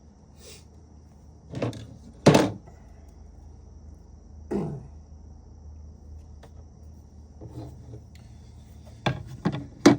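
A handful of separate knocks and clunks of tools and parts being handled on a workbench, the loudest a little over two seconds in.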